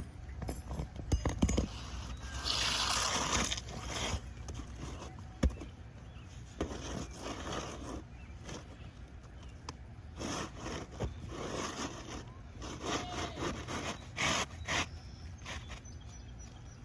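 Asphalt roof shingles being handled and worked during a shingle repair: scraping and rustling with several sharp knocks about a second in, and a longer scrape shortly after.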